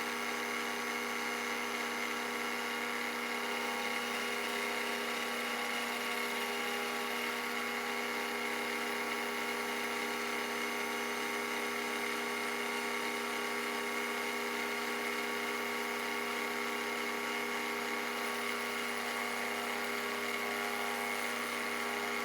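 Bridgeport milling machine running at a steady whine with several fixed tones, a 1/2 inch two-flute high-speed end mill cutting a radius into an aluminium link.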